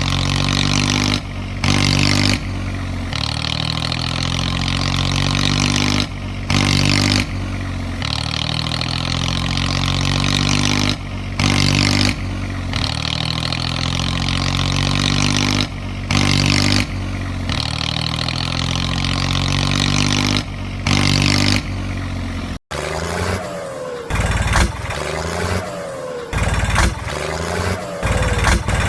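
Engine running steadily, the same few-second stretch repeating with short breaks about every five seconds. After an abrupt cut near the end, an engine revs up several times with clattering.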